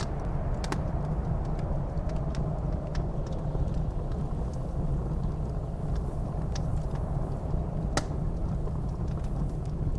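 Wood fire crackling with scattered sharp pops, the loudest about eight seconds in, over a steady low rumble of blizzard wind with a faint wavering whistle.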